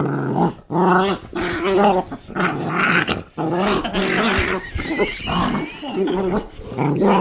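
Puppy growling in tug-of-war play over a bag: a string of rough growls broken by short pauses.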